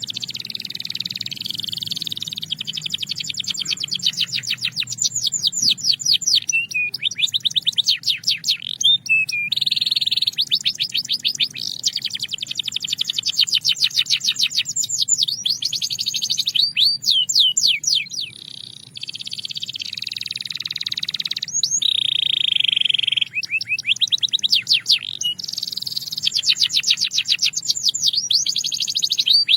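Belgian canary singing long, fast trills and rolls: high-pitched notes repeated in quick runs, the phrases broken by short pauses.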